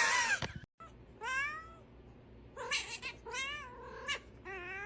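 A cat meowing and yowling: four drawn-out calls that waver in pitch, following a loud noisy burst and a brief break in the first second.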